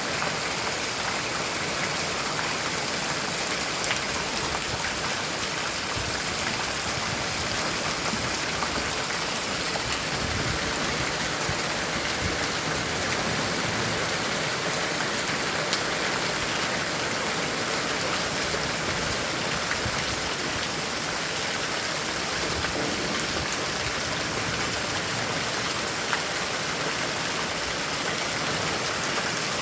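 Steady heavy rain falling, an even hiss with an occasional sharper drop tick.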